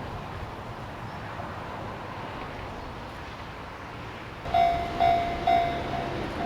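Train running on the line with a steady rumble. About four and a half seconds in, a ringing tone starts repeating: three loud strokes about half a second apart.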